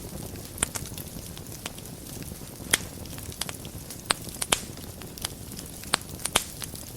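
Wood fire in a fireplace crackling, with a steady low rumble under sharp irregular pops and snaps, the loudest a little under three seconds in.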